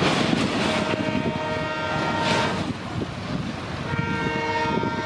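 Two long horn blasts from twin EMD WDG4 diesel locomotives, the second a little shorter, over the steady rumble of the moving train.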